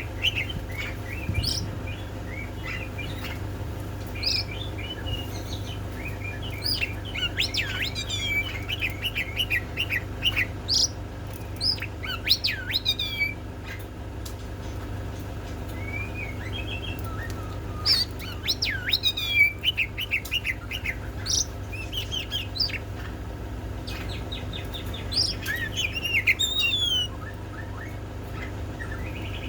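Small birds chirping and trilling in quick, overlapping bursts of calls, over a steady low hum.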